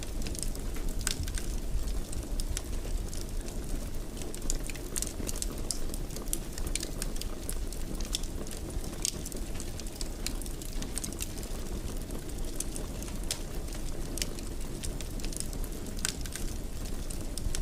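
Wood fire crackling in a fireplace: irregular sharp pops and snaps, some in quick clusters, over a steady low rumble of burning.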